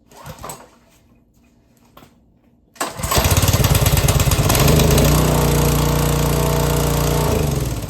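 Small 208cc single-cylinder pressure-washer engine, its pump removed, pull-started and catching on the first pull about three seconds in. It runs steadily for about four and a half seconds, then slows and dies away near the end.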